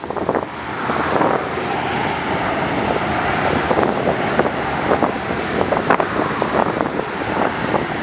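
Steady road-vehicle noise with frequent short knocks and rattles through it.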